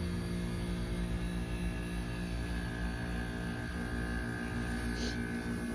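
Trane XR13 heat pump outdoor unit running in defrost mode, a steady hum.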